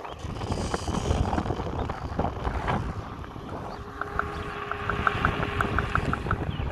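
Kingsong S22 electric unicycle being ridden, with wind and road rumble on the microphone and scattered knocks from the wheel. In the second half comes a quick run of light clicks, about five a second. The knocking comes from a loose fit between the motor hub and its bearing.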